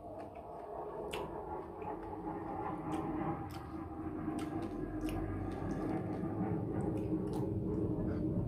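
Wet squishing and chewing of soft, juicy ripe mango flesh, with scattered small smacking clicks, over a low hum that grows steadily louder.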